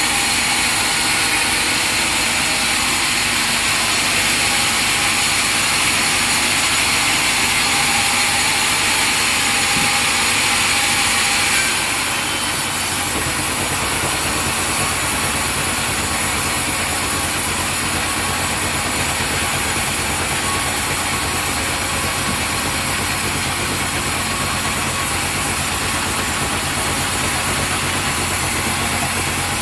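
Sawmill machinery running steadily and loudly. About twelve seconds in the sound changes: the high hiss fades and a lower hum comes up.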